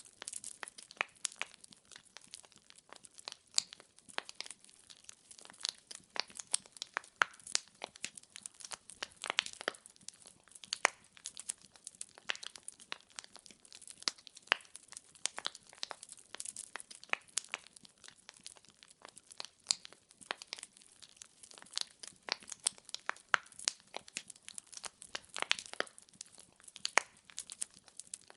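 Burning firewood crackling: a dense, irregular stream of small snaps and pops, with a sharper pop every second or so.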